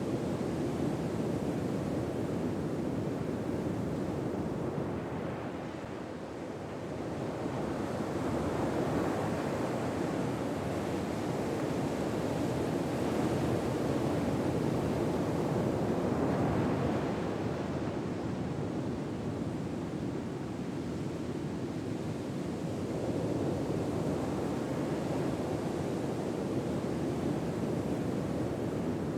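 Ocean waves washing on a shore: a steady rushing hiss that slowly swells and falls back over several seconds at a time.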